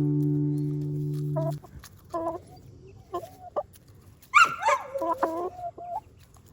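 Domestic hens clucking in short calls, with one louder squawk about halfway through. A held musical chord sounds underneath at first and stops about a second and a half in.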